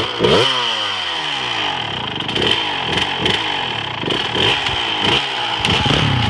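Dirt bike engine revving in repeated throttle blips, its pitch rising sharply and falling away each time, many times over.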